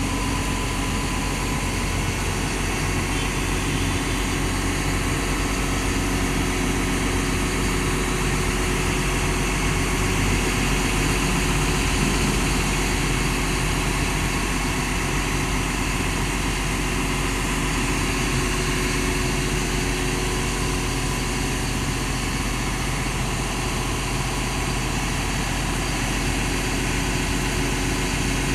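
Liugong CLG922E crawler excavator's Cummins diesel engine running steadily, a constant drone with a few level tones over it and no revving.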